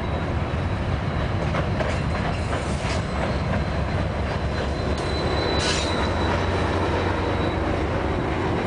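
GO Transit commuter train rolling past: a steady rumble of steel wheels on rail with clicks over the rail joints and a thin, high wheel squeal running through it.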